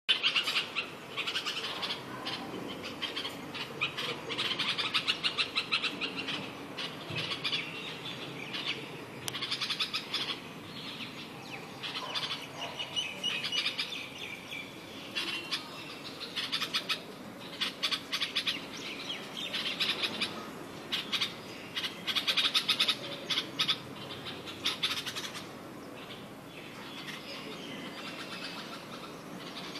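Small birds chirping and twittering in quick, repeated bursts, fading to a quieter chatter in the last few seconds.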